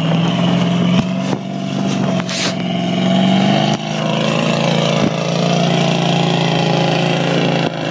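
Mud bog truck's engine running hard at high revs, holding a fairly steady pitch with small dips, with a few sharp knocks and a brief hiss about two and a half seconds in.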